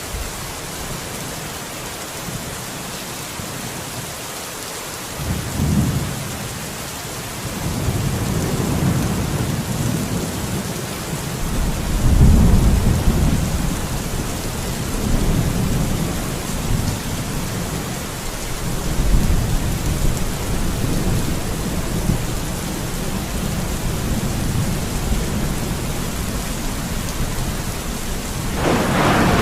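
Steady rain, joined about five seconds in by low rolling thunder that swells several times, with a louder burst of thunder near the end.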